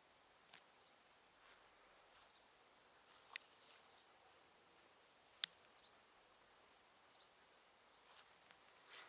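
Near silence broken by a few short, sharp clicks, the loudest about three and a half and five and a half seconds in, over a faint steady high whine.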